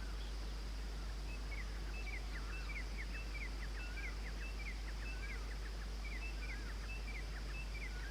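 Red-vented bulbul calling: a quick series of short, hooked whistled notes, about two a second, starting about a second in, over a steady background hiss.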